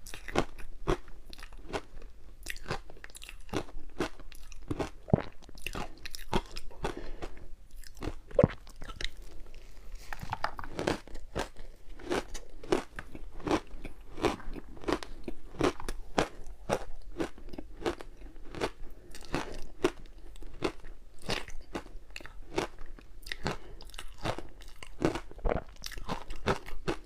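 Close-up crunching and chewing of ice, a steady run of sharp crunches a few times a second.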